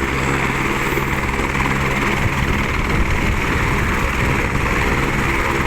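Helicopter's turbine engine and rotor running, a loud, steady noise with a low hum that fades somewhat after about two seconds.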